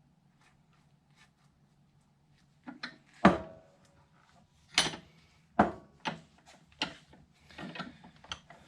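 A new universal joint being worked in its bearing caps in a drive shaft yoke: after a quiet start, a series of sharp metal clunks and clicks at uneven intervals. The loudest comes about three seconds in, and there is a quicker cluster near the end.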